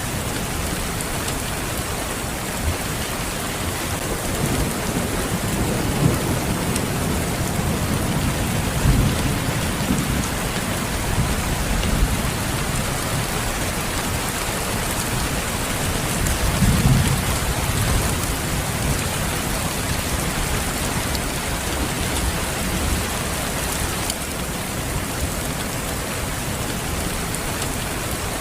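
Steady rain falling, with low rolls of thunder rumbling under it: one building about five seconds in and lasting several seconds, another a little past the middle.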